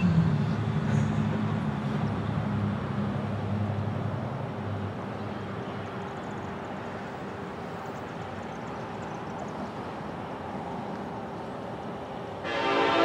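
Approaching diesel freight train: a low engine rumble that fades over the first five seconds, then a quiet spell of steady background noise. About half a second before the end, the lead locomotive's multi-chime air horn starts blowing loudly.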